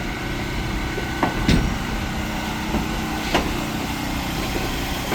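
Passenger train pulled by 2-8-0 steam locomotive #18 rolling along the track: a steady rumble with two or three sharp clacks from the wheels, about a second and a half in and again near the middle.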